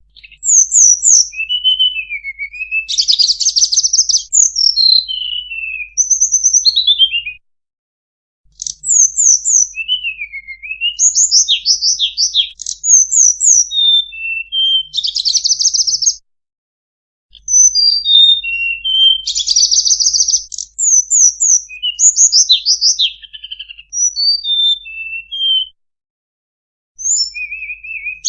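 Tledekan (Cyornis blue flycatcher) song played as a bird-trapping lure call. Rapid, varied phrases of high whistled slurs, quick rising and falling notes and buzzy trills come in bouts of about eight seconds, with brief pauses between them.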